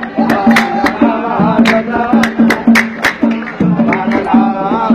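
Dan folk song: a voice singing a wavering, ornamented melody over regular hand-drum strikes and repeated low accompanying notes.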